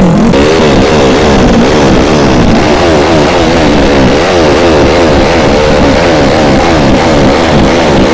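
Motorcycle engine revved over and over, its pitch climbing and dropping about twice a second, very loud and distorted.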